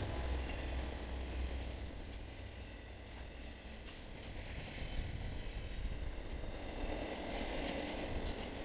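Freight train cars rolling past: a steady low rumble of steel wheels on rail, with a few short clicks now and then.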